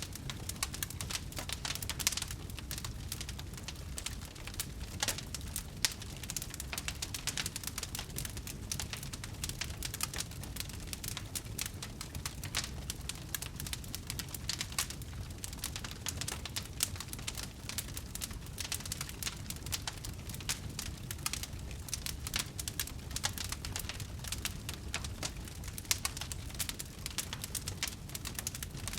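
Burning wood fire crackling: dense, irregular sharp pops and snaps over a steady low rumble of the flames.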